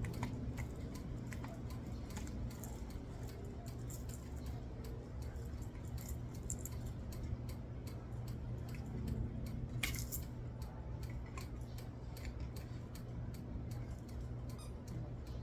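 Light metallic clicks and rattles of rod and hardware parts being handled during assembly, with a sharper click about ten seconds in, over a steady low hum.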